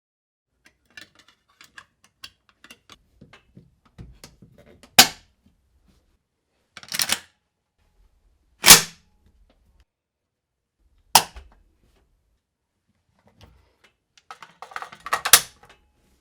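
Parts of an AK-47-type rifle being handled: a run of light clicks over the first few seconds, then five loud, sharp clacks spread out over the rest.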